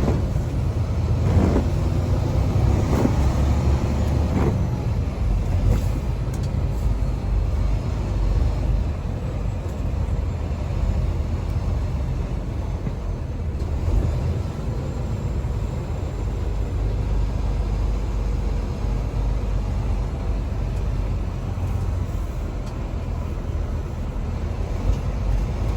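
Semi truck's diesel engine running as the truck drives, a steady low rumble, with some uneven revving in the first few seconds.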